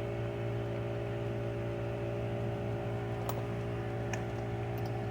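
A steady low mechanical hum with several constant tones, and a few light clicks about three and four seconds in.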